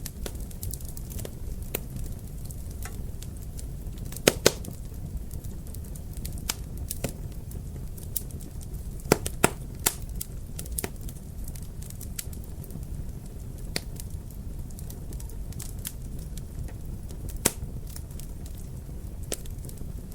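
Wood fire in a fireplace crackling over a steady low rumble, with scattered sharp pops. The loudest pops come as a pair about four seconds in and as a quick cluster around nine to ten seconds.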